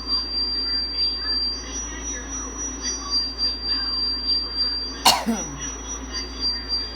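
Two steady high-pitched tones at slightly different pitches switch on and off in turn over a low hum and faint radio voices. About five seconds in, a sharp click is followed by a quick falling whistle.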